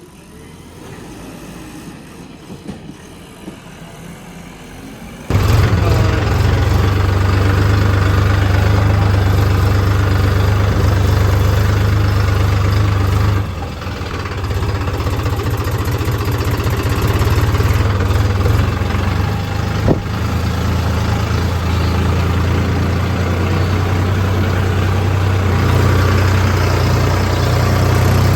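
Heavy diesel engine running steadily with a strong low hum, coming in abruptly and loud about five seconds in after a quieter stretch; its level drops briefly about halfway through, then holds.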